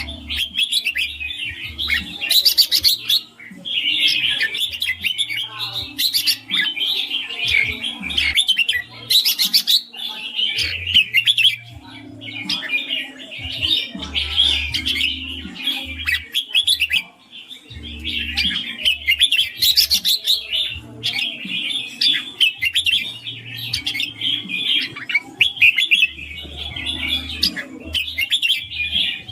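Red-whiskered bulbul singing a nearly continuous stream of quick, bright, chirping phrases, with only brief pauses.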